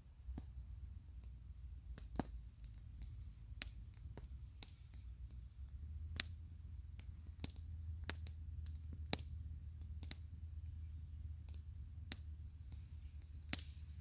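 Campfire crackling: burning wood giving off irregular sharp pops, roughly one a second, over a low steady rumble.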